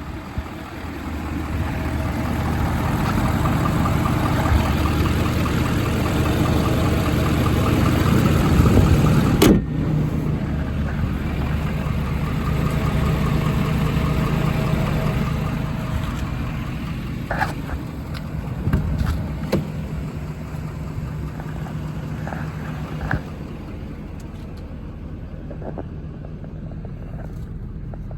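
A Ford F550's 6.7 L Power Stroke diesel idling steadily, growing louder over the first nine seconds. There is a sharp knock about a third of the way in and a few faint clicks later on.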